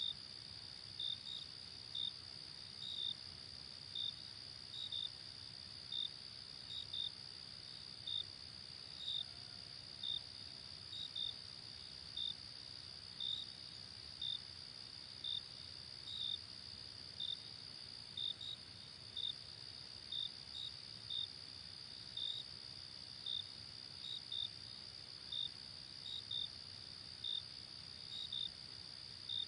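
Crickets chirping: a steady high trill, with separate short chirps about once a second, some in quick pairs. A faint low rumble runs underneath.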